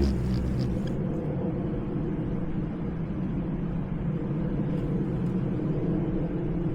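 Steady low hum and rumble of background machinery or traffic, with a few brief high-pitched chirps in the first second.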